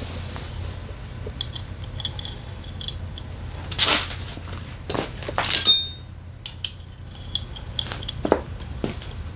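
Metal tools and engine parts clinking and clattering as they are handled. There is a louder clank about four seconds in, and a ringing metallic clatter a second or so later.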